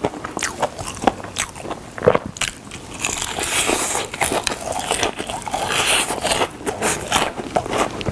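Biting and chewing crispy fried chicken drumsticks: crunching and crackling of the coating, with a denser run of crackling through the middle.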